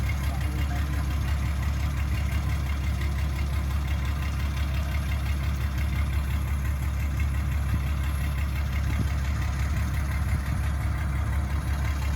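Heavy diesel engine idling steadily at an even, unchanging level, with a deep low rumble.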